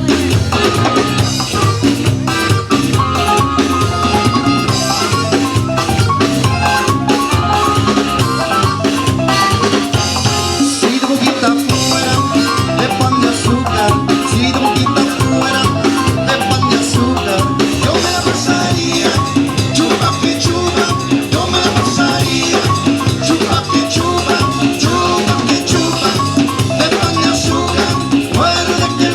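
Live Tejano band playing an instrumental passage: a bright melodic lead over drum kit and bass with a steady dance beat, no singing.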